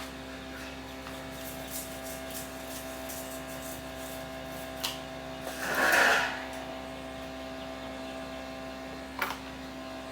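An electric machine runs with a steady hum, switched on just before and off just after. A short scraping burst about six seconds in and a few light clicks are heard over it.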